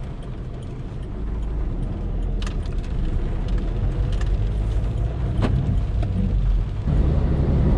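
Diesel Volkswagen Polo running, a low rumble that grows steadily louder and steps up again near the end, with a few short sharp clicks in the middle.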